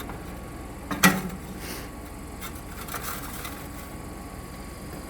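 Metal grill grates clanking as they are lifted out and stacked on each other: one loud clank about a second in, then a few lighter knocks.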